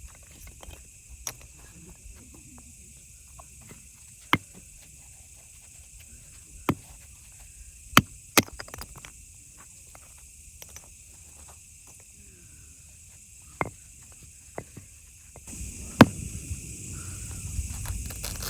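Wood fire crackling over a faint steady hiss, with a handful of sharp, scattered pops a second or more apart. A low rumbling noise comes up near the end.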